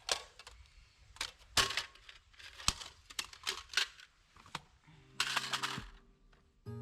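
Camping gear being handled and packed up: a series of light clicks, knocks and crinkling, with a brief louder rasp about five seconds in.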